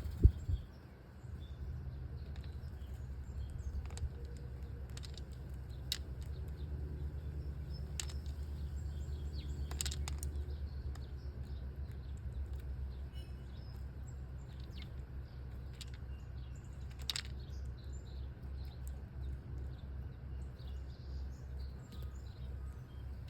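Small birds chirping with short, scattered high calls, along with a few sharp clicks, over a steady low rumble. A single loud thump comes just after the start.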